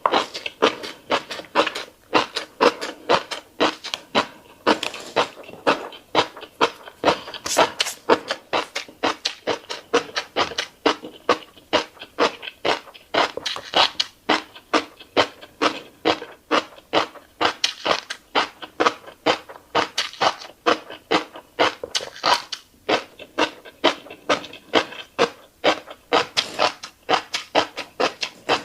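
Close-miked eating of fish roe: wet chewing with rapid clicking and popping of the eggs and mouth smacks, about three a second without a break.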